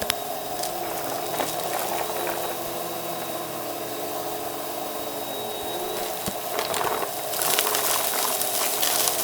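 Vacuum cleaner running with its brushroll spinning, scattered crackles and clicks of debris being picked up, and a louder stretch of crunching about seven seconds in.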